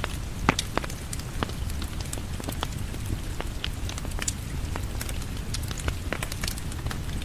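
Rain falling on a porch mixed with a crackling wood fire: a steady hiss and low rumble under frequent sharp crackles and pops, the loudest pop about half a second in.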